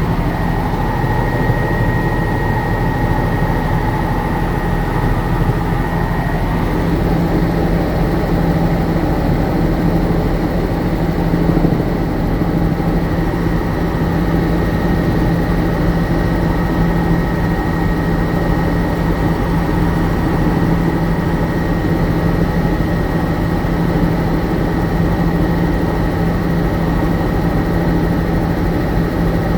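Helicopter engine and rotor droning steadily, with a constant low hum and a faint high steady whine.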